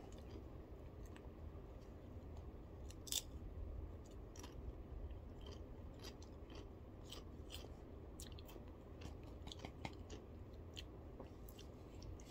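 Faint crunching of Pringles potato crisps being chewed: irregular short crunches, one louder about three seconds in, over a low steady hum.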